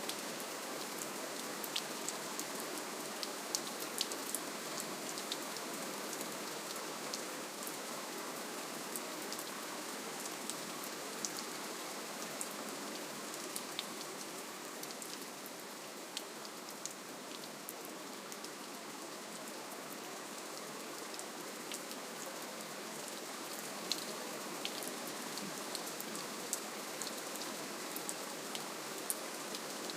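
Soft, steady rainfall: an even hiss of rain with scattered sharp ticks of single drops striking, easing slightly in the middle.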